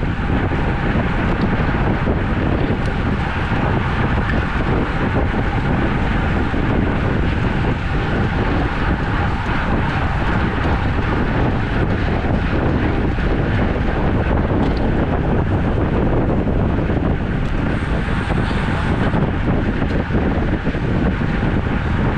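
Steady wind noise rushing over the microphone of a camera carried on a moving road bicycle.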